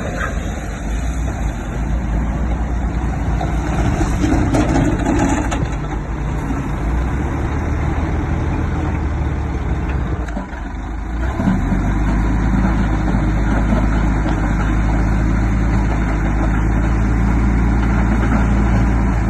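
Heavy diesel engine of earthmoving machinery running. It dips briefly about ten seconds in, then runs louder and more evenly.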